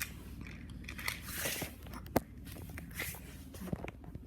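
Wooden toy trains being moved by hand on the track: scattered light clicks and knocks, one sharper click about two seconds in, and a few short hisses.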